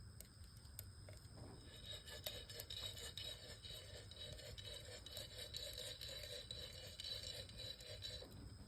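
Coffee beans being shaken in a hand roaster over a campfire, a soft rattling scrape that starts about two seconds in and stops near the end, with scattered small crackles.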